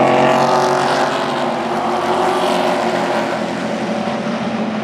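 Super Truck race engines running at speed in a pack, loudest at the start as trucks pass close by, then easing off a little as they move away.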